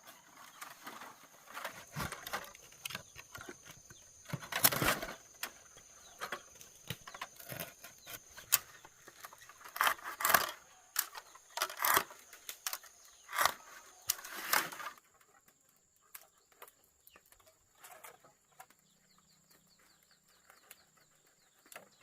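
Irregular sharp knocking and rustling, some strokes brief and some drawn out, which stops abruptly about fifteen seconds in, leaving faint scattered ticks. A thin, steady high-pitched tone runs beneath.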